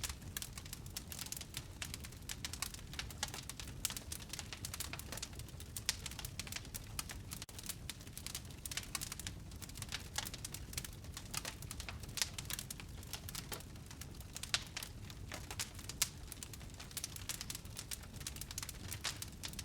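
Wood fire burning in a fireplace, crackling with frequent small irregular pops over a low steady rumble of flame.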